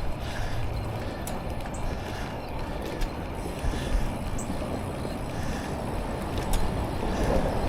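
Steady rushing wind and rolling noise of a bicycle being ridden, picked up by an action camera worn on a neck mount, with a few faint short clicks. The noise grows a little louder near the end.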